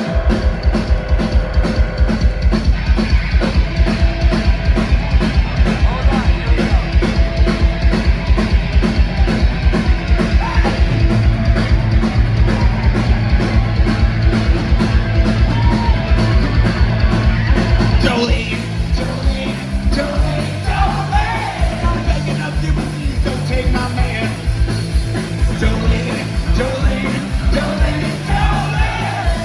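Loud, fast rock music with a driving drum beat and bass line; about eighteen seconds in the arrangement changes and voices come in over it.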